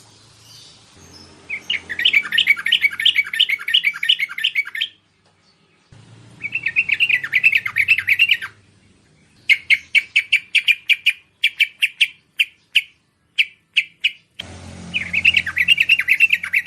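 Bulbul calling in repeated bursts of rapid chattering notes, four phrases of a few seconds each; the third phrase breaks into separate, spaced notes toward its end. This is a bulbul call recording of the kind played to lure wild bulbuls.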